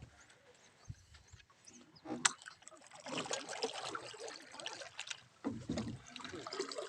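Faint water splashing and sloshing that starts about three seconds in, from a hooked fish being pulled in among the rocks. A single sharp click comes just before it.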